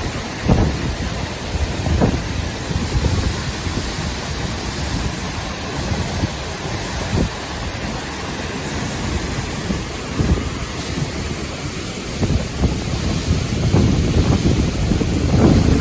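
Strong wind buffeting the microphone in uneven gusts over a steady rushing noise, with the heaviest gusts near the end.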